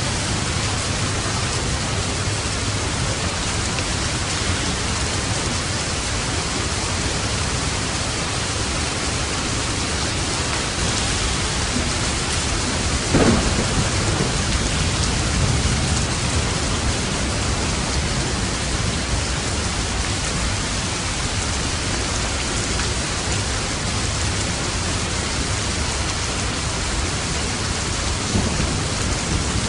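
Steady heavy rain with light thunder: a sharp crack about halfway through, followed by a low rumble that dies away over a few seconds, and a fainter rumble near the end.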